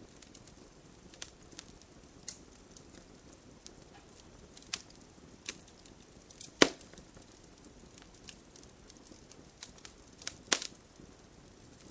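Wood fire crackling with scattered sharp pops and snaps, the loudest about two-thirds of the way through and a quick cluster near the end, over a faint steady hiss of rain.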